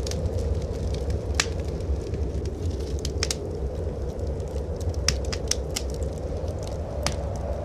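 Wood fire crackling in a fireplace, with irregular sharp pops and snaps, over a steady low rumble.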